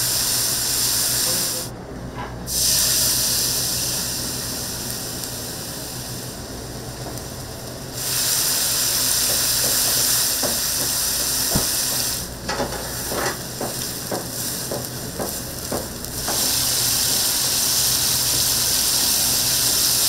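Food sizzling as it fries on a hot pan, breaking off and starting again abruptly several times. In a quieter stretch past the middle, a string of short clicks.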